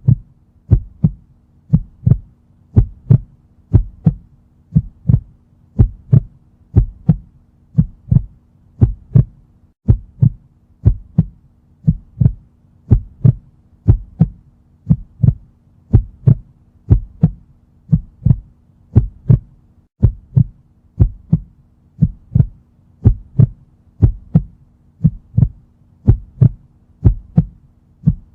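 Regular paired low thumps like a heartbeat, about one pair a second, over a faint steady hum.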